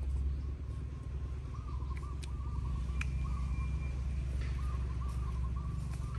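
A bird calling in repeated groups of short, warbling notes over a steady low rumble.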